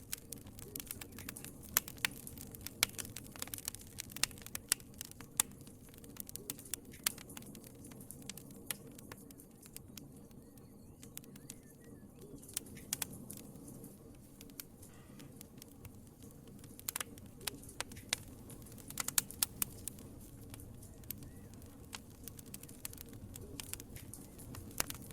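Wood fire crackling in a fireplace: irregular sharp pops and snaps over a soft low hiss of burning, the pops coming in clusters with quieter stretches between.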